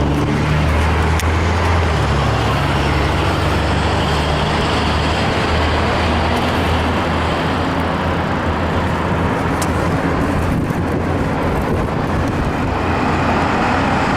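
Steady rushing noise of a bicycle ride along a road: wind on the microphone and road noise, with a constant low rumble.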